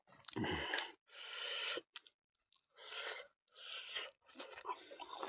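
A person chewing mouthfuls of food close to the microphone, in separate bursts of about half a second with short silences between, turning into quicker small clicks near the end.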